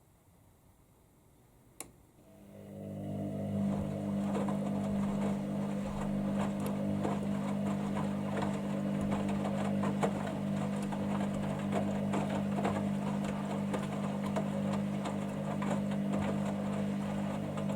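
Hoover Dynamicnext washing machine's drain pump starting after a click, its steady mains hum swelling in and holding while it pumps out the main-wash water, with light rattling from the drum.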